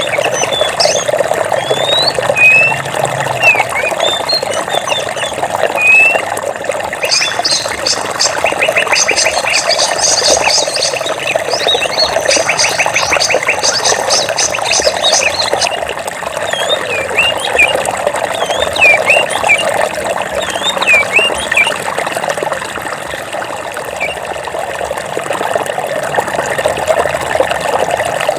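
Running water with a steady rush, and birds chirping in short calls that slide up and down. From about a quarter of the way in to just past the middle, a rapid trill repeats many times a second over the water.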